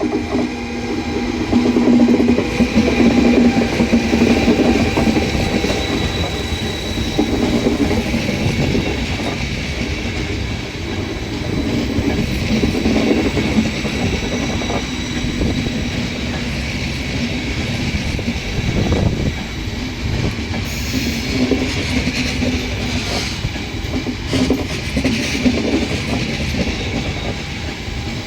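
Intercity passenger train hauled by E464 electric locomotives rolling through a station, its wheels clacking steadily over the rail joints, with a continuous rumble and a faint high ringing tone.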